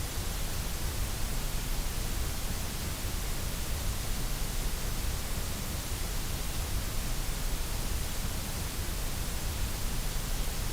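Steady white noise for relaxation and sleep: an even, unchanging hiss over a low rumble, with no rhythm or events.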